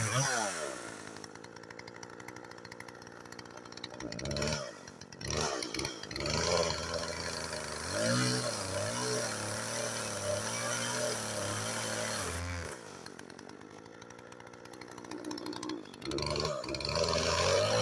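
Two-stroke gas chainsaw running while cutting wood: the engine drops back to idle near the start, revs up about four seconds in, holds high with its speed wavering under load, falls to idle again after about twelve seconds and revs up once more near the end.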